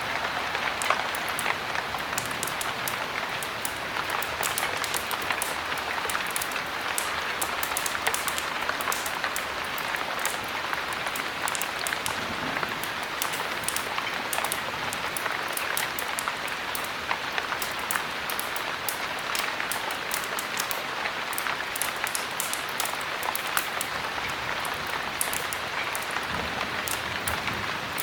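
Heavy rain falling steadily, an even hiss of rain with many sharp little ticks scattered through it.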